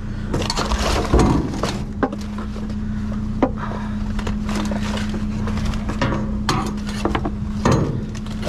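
Scrap being rummaged through in a dumpster: irregular clanks and knocks of metal pieces being shifted and pulled out, over a steady low hum.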